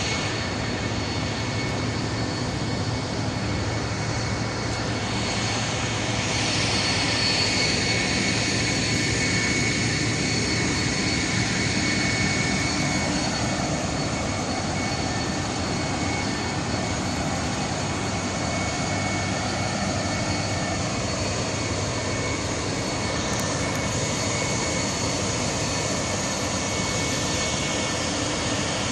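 Boat engine running at a steady pace: a continuous even drone with a constant high whine over it.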